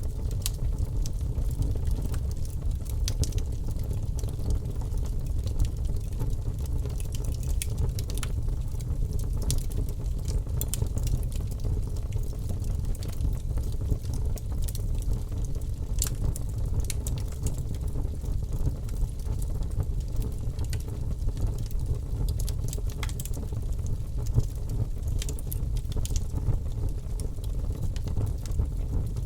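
Wood fire burning in a fireplace: logs crackling, with frequent sharp pops over a steady low rumble.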